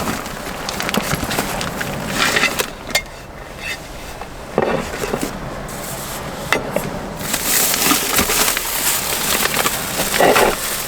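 Cooking sounds: a series of knocks and clatters of utensils on wood and cookware, with a hiss from about seven seconds in.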